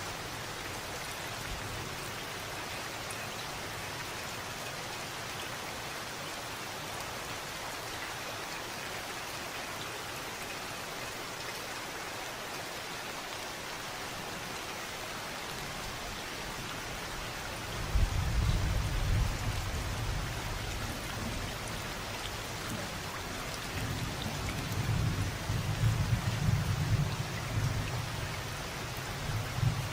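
Steady rain falling in an even hiss. A little past halfway in, deep rolls of thunder set in, rumbling on and off and swelling loudest near the end.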